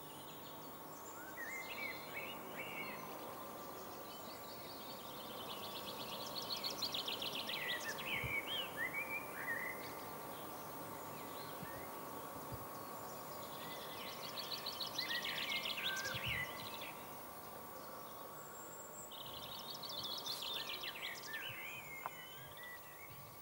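A small songbird singing three phrases a few seconds apart, each a fast run of high notes that ends in a lower, varied flourish, over a steady faint hiss and hum.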